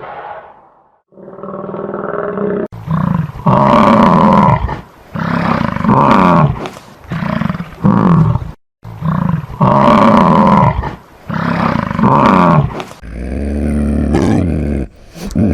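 A large animal giving a series of loud, deep calls about a second apart, each falling in pitch, with abrupt edits about three seconds in and near nine seconds; toward the end a lower, steadier call takes over.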